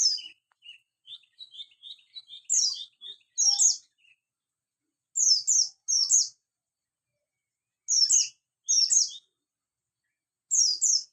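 Oriental white-eye (pleci buxtoni) singing: short, high, rapid chirp phrases of two or three notes, repeated every couple of seconds. Over the first few seconds these are mixed with a run of softer, lower twittering notes.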